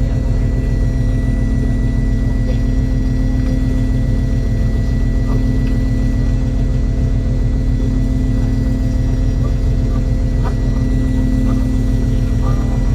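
Fishing boat's engine running steadily: a loud, even low rumble with a thin, steady high whine above it.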